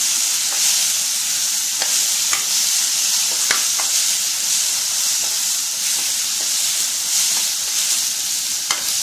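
Onion-tomato masala with chilli powder sizzling steadily in oil in a non-stick kadai, stirred with a steel spatula that scrapes and taps the pan now and then.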